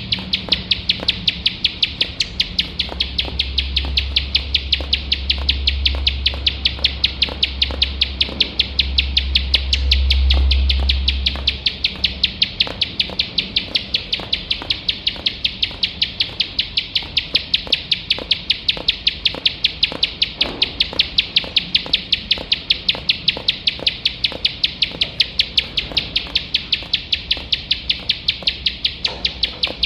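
Plain prinia (ciblek sawah) calling without a break: a fast, even train of sharp, clicking notes, several a second, repeated on and on. A low rumble sits underneath from a few seconds in to about twelve seconds.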